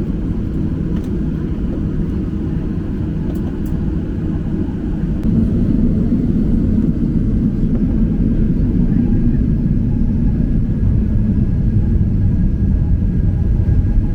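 Jet engine rumble from a Boeing 737-800's CFM56 engines, a steady low noise that grows louder about five seconds in and then holds.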